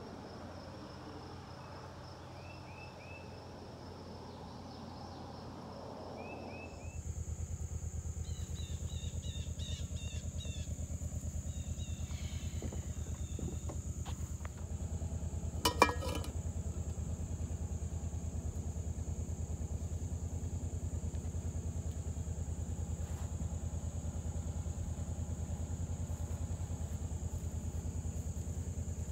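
Birds chirping over a soft outdoor hush. From about seven seconds a steady low hum with a thin high whine takes over, with more chirps and a single sharp knock a little past the halfway point.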